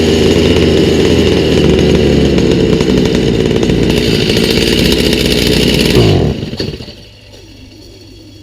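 Stihl MS290 chainsaw's two-stroke engine running on a newly fitted aftermarket carburetor, then dropping in pitch and stopping about six seconds in.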